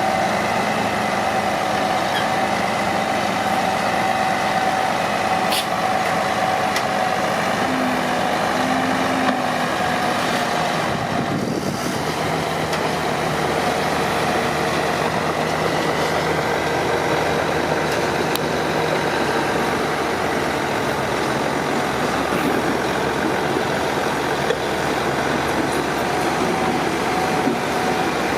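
Komatsu D41P crawler dozer's diesel engine running steadily under work, a constant drone with a steady whine over it that briefly dips about eleven seconds in.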